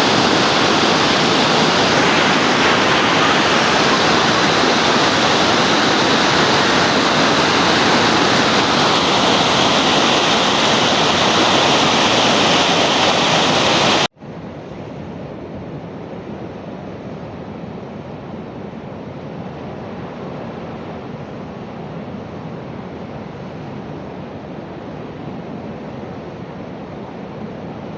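Steady rush of falling water from a waterfall. About halfway through it cuts off abruptly to a quieter, duller steady rush.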